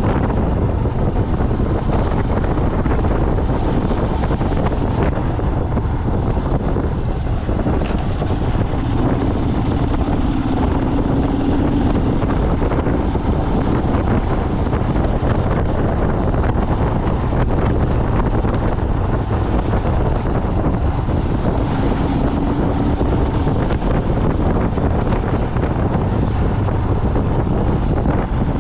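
A vehicle driving, heard as steady engine, road and wind noise, with a humming tone that rises briefly about a third of the way in and again near the end.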